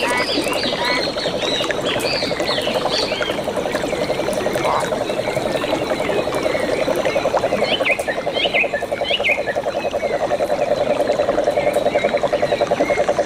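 Frogs calling in a forest chorus: a steady, fast pulsing trill that grows louder toward the end, with higher chirping calls over it in the first few seconds and again about eight seconds in.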